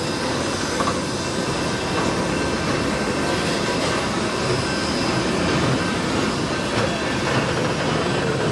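Steam train's tender and passenger cars rolling past at close range: a steady rumble of steel wheels on the rails, with faint thin high squeal tones.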